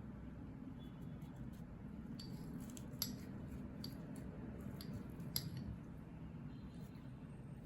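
Scattered light clicks and taps, two sharper ones about three and five and a half seconds in, over a steady low hum.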